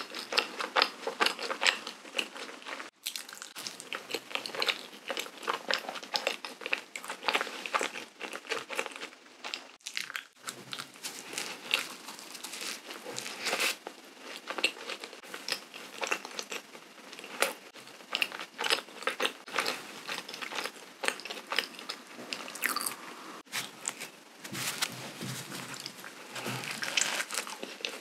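Close-miked chewing of a mouthful of cream-filled, powdered-sugar donut, with a dense run of small wet mouth clicks.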